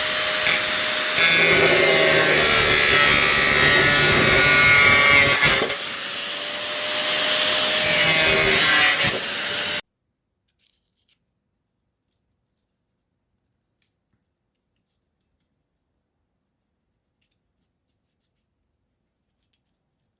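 A power tool running while it cuts or grinds, for about ten seconds with a short dip in pitch and level near the middle, then stopping suddenly.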